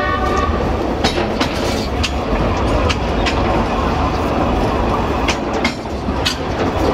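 A train rolling over jointed track: a steady low rumble with irregular clacks as the wheels cross the rail joints. A horn that began just before ends about half a second in.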